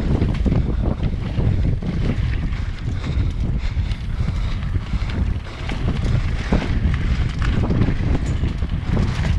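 Wind buffeting the microphone of an action camera on a mountain bike riding a dirt trail, with a steady rumble and frequent clicks and knocks as the bike rattles over rough ground.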